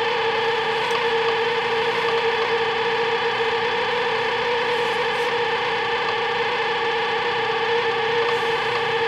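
Sharp Half-Pint microwave oven running: a steady hum with one strong even tone and fainter tones above it, unchanging throughout.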